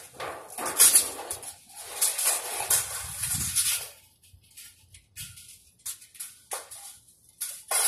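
Metal frame pieces of a storage shed kit being handled on a concrete floor: two stretches of scraping noise in the first four seconds, then a few short knocks and clinks.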